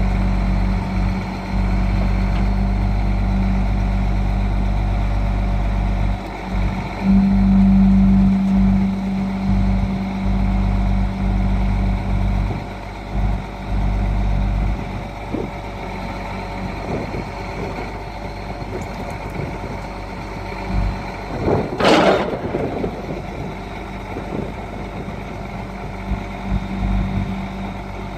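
Freightliner truck's diesel engine running steadily. It is louder for about the first half, with a swell a quarter of the way in, then quieter. About three-quarters through there is one brief, loud burst of noise.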